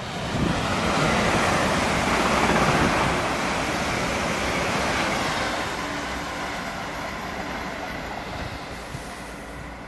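Electric multiple-unit passenger train passing through at speed: a rushing rumble of wheels on rail that builds over the first second, is loudest two to three seconds in, then fades steadily as the train draws away.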